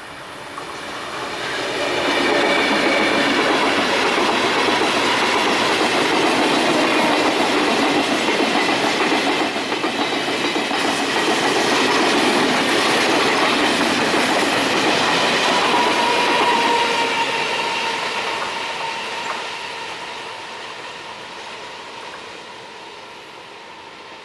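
A train passing by: the clatter and rumble of its wheels on the rails builds over about two seconds, stays loud for about fifteen seconds, then fades away. Steady high-pitched tones ring above the clatter.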